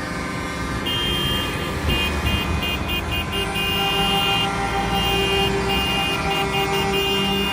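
Truck horns: a high horn sounding in a run of short, uneven blasts, joined about three and a half seconds in by a lower, longer horn tone, over engines running.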